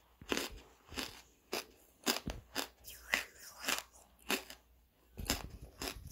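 Soft charcoal being chewed close to the microphone: crisp crunches about twice a second, with a short pause near the end.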